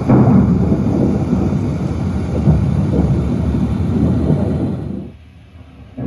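Thunderstorm sound recording: loud rolling thunder rumbling over rain. It dies away about five seconds in, and a fresh rumble begins right at the end.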